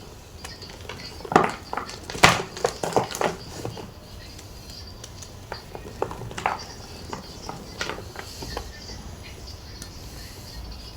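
Gym chalk being crunched and crushed: irregular crisp cracks and crumbles. A quick cluster of louder crunches comes in the first few seconds, then sparser, softer ones.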